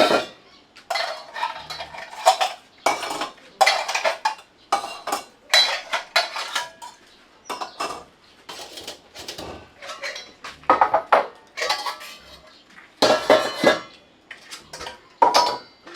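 Metal utensils clattering and scraping against metal cookware in a long run of irregular strokes, some leaving a short ring.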